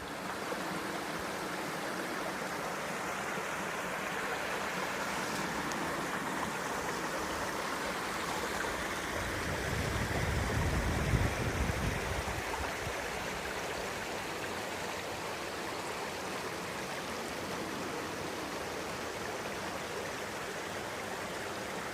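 Steady rushing of flowing stream water, with a low rumble swelling up about ten seconds in and fading again.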